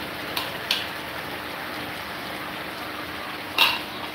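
Diced chicken and chopped pepper sizzling steadily in a frying pan. A few short clicks come from the small spatula tapping and scraping against the plastic cup and pan, the loudest about three and a half seconds in.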